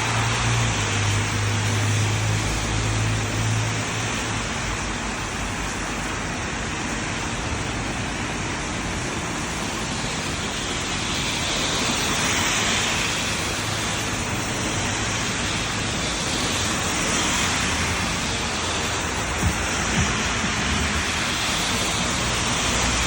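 Steady hiss of rain and tyres on a wet road, swelling now and then as cars pass. A low engine hum runs under it for the first few seconds. Two sharp clicks come close together near the end.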